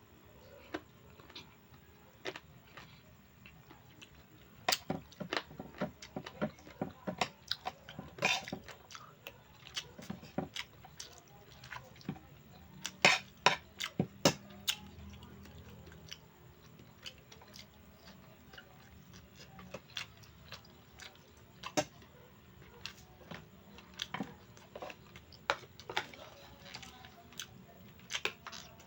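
Eating at a table: a spoon and fork clicking and scraping against a plate at irregular intervals, with chewing in between. The clinks come thickest in the first half and again near the end.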